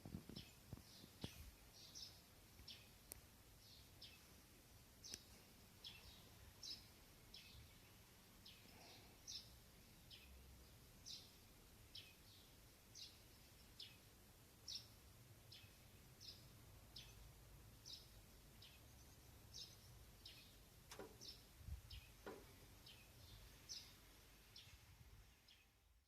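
Faint bird chirping: short high calls repeating about once or twice a second, with two soft knocks near the end.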